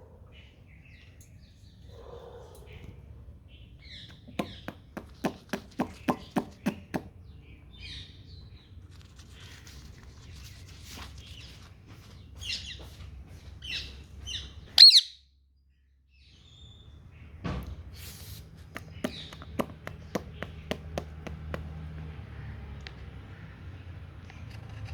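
Indian ringneck parakeet giving short high chirps and one loud shrill squawk about halfway through. There are two runs of rapid sharp clicks or taps, one early and one later.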